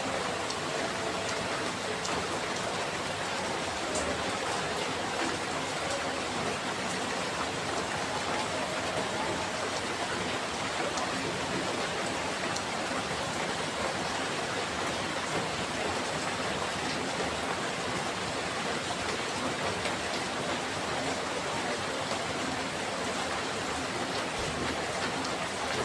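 Steady rain falling: an even, unbroken hiss of drops on surfaces.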